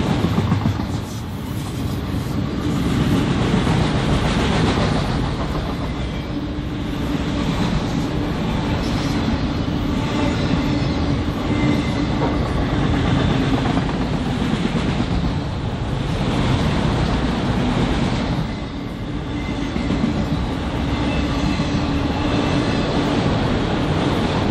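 BNSF freight train cars rolling past, loud and steady, the sound swelling and dipping every few seconds.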